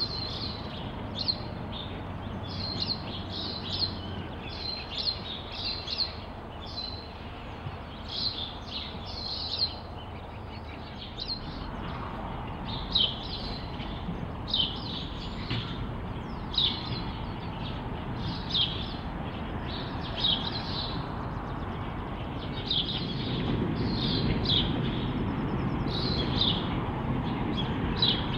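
Small birds chirping over and over, short high calls that are the loudest thing throughout. Underneath, a low rumble from two EMD G22AR diesel locomotives and their log train, which grows louder in the last few seconds as the train sets back closer.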